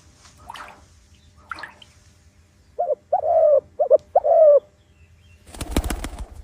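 A dove cooing: a phrase of five low coos in the middle, short, long, two short and long, after two faint higher calls. A brief rustling clatter follows near the end.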